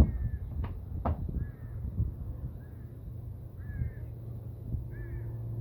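A bird calling in a series of short, repeated calls about once a second, with two sharp knocks about half a second and a second in.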